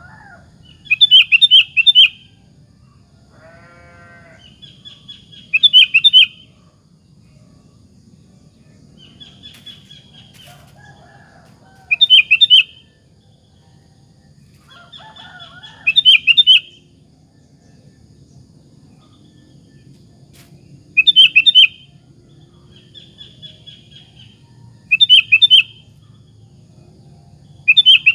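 Sooty-headed bulbul (kutilang) singing: short, loud bursts of rapid high notes, repeated about every four to five seconds, with fainter, lower calls in between.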